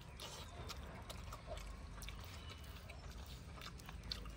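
Faint chewing of a mouthful of chicken liver and gizzard curry with rice, with small wet smacks and scattered clicks.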